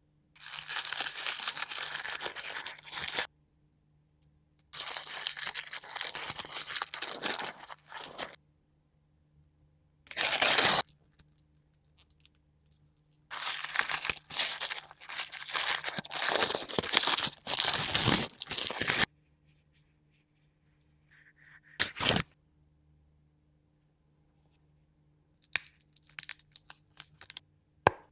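Toy packaging being torn open in several long rips, the longest lasting about six seconds, followed by a few short crinkles and clicks near the end.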